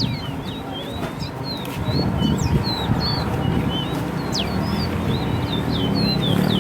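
Caged songbirds singing in a bird-race contest: a rapid run of short high chirps and slurred whistled notes, over a steady low rumble.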